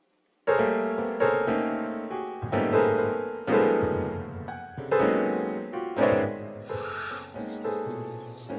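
A slow, sad tune played on a piano, single notes and chords struck about once or twice a second and left to ring out.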